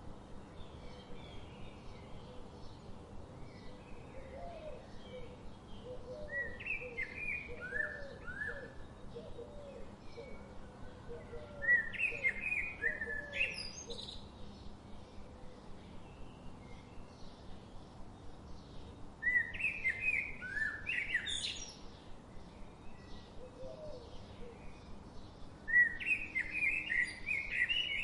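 Birdsong with several birds. One bird repeats a loud song phrase four times, about every seven seconds: a quick run of chirping notes ending in a sharp upward sweep. Fainter chirps go on behind it, and a softer, lower run of repeated notes comes in the first half.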